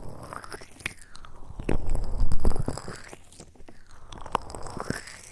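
Close-miked ASMR trigger sounds: scattered soft clicks and crackles, with a louder, muffled rubbing swell about two seconds in.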